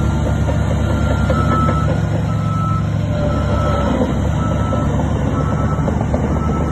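Heavy earthmoving machine's diesel engine running steadily, with its reversing alarm beeping about once a second as it backs up.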